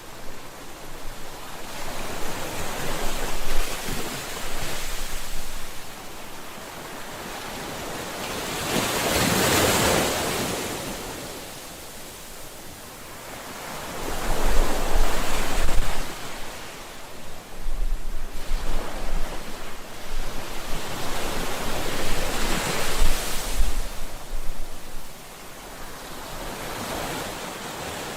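Ocean waves breaking on a shore, a hiss that swells and ebbs every few seconds, with a low rumble under some of the breakers.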